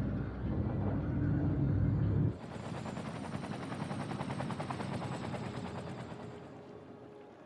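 A heavy, low vehicle rumble that cuts off abruptly a little over two seconds in, giving way to a fast, even mechanical rattle that slowly fades away.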